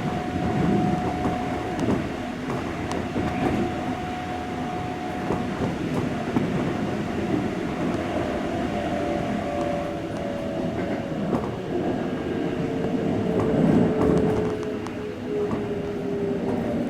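Keikyu 600 series electric train with Mitsubishi GTO VVVF traction control running, heard from inside the car: a steady rumble of wheels on rail with occasional clicks. A steady whining tone sounds through the first half, and from about halfway on several tones slide slowly down in pitch.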